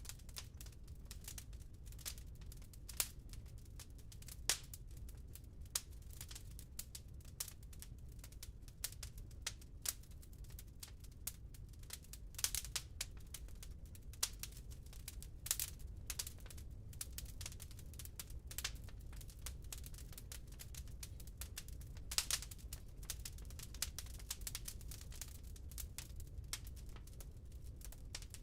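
Wood burning in a fireplace, crackling steadily with irregular sharp pops, several of them louder than the rest, over a low steady rumble.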